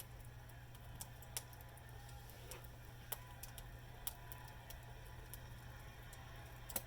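Small wood bonfire crackling: irregular sharp pops at uneven spacing, the loudest near the end, over a faint steady low hum.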